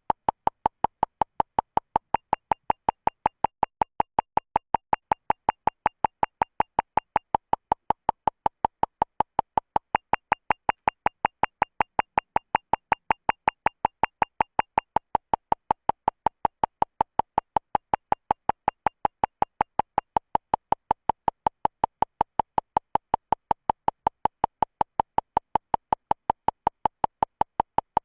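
Short electronic beeps at one steady pitch, repeating evenly about three times a second without a break.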